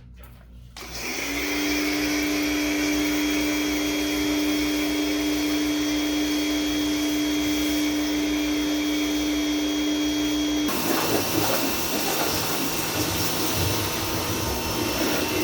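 Dextra electric pressure washer's motor and pump starting about a second in, with a short rising whine, then running with a steady hum while it sprays foam from the foam cannon. About ten seconds in the steady hum stops and a rougher, uneven noise of about the same loudness carries on.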